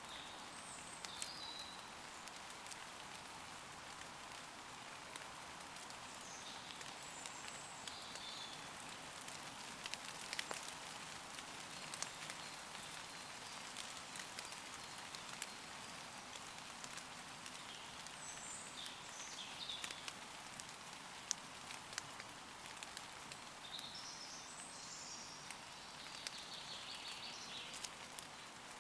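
Steady light rain falling on leaves, with many separate drops ticking through the hiss. Short, high bird calls come every few seconds, several close together near the end.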